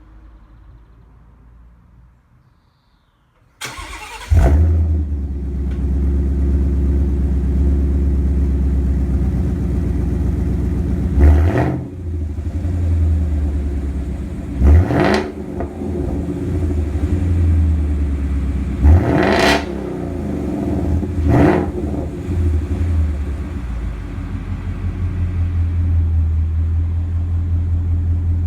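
Ford Mustang 5.0 V8 starting up about four seconds in with a loud flare, then idling steadily, with four short throttle blips that rise and fall back to idle.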